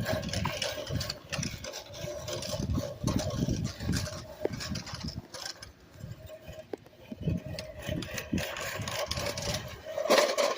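An engine running steadily under irregular low rumbling and rubbing noise, with a louder burst of noise just before the end.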